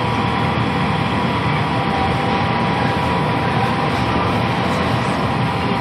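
Glassblowing furnace burner running with a steady roar, with a thin steady whine above it.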